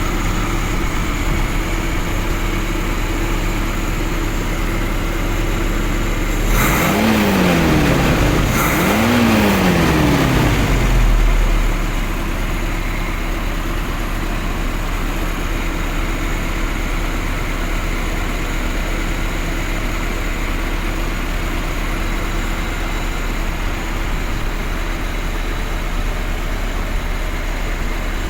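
Isuzu truck engine idling steadily. About a quarter of the way through it is revved up and let back down twice in quick succession, then returns to idle.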